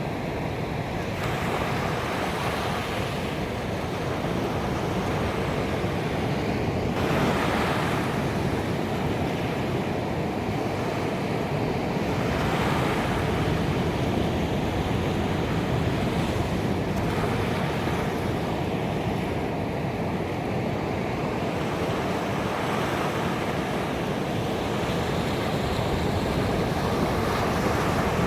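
Ocean surf breaking on a beach: a continuous rush of water with a wave cresting and washing in every few seconds.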